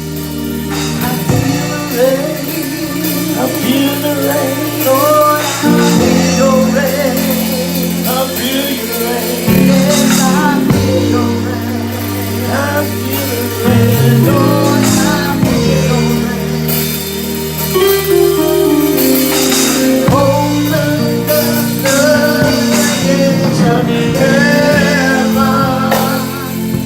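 Gospel music with singing, bass, drums and tambourine, played at full volume.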